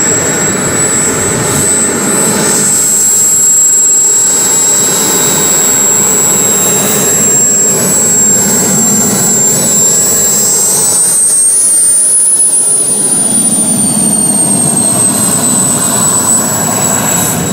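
Twin KingTech K-235 model turbine jet engines of an RC Su-30 running with a steady high-pitched whine over a rushing rumble; the whine rises in pitch about ten seconds in as the throttle goes up, then eases back down.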